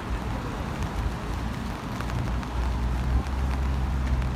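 Heavy rain falling on a city street, an even hiss, under the low rumble of traffic that steadies and strengthens about halfway through.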